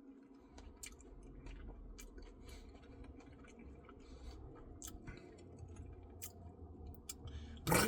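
Close-miked mouth sounds of eating a Reese's Pieces cookie dough Blizzard: soft chewing with many small wet clicks. Near the end, a short vocal sound falling in pitch.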